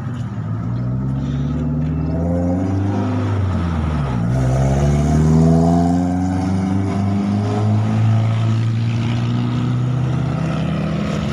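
Light truck's diesel engine being revved: its pitch climbs, drops sharply about four seconds in, then climbs again and holds at raised revs.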